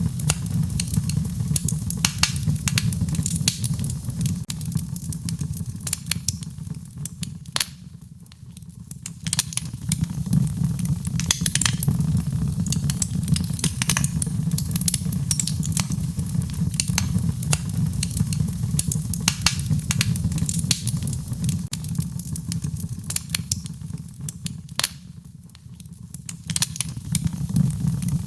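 Wood fire burning in a fireplace, crackling with frequent sharp pops over a steady low rumble of the flames. The rumble briefly dies down twice, about a third of the way in and near the end.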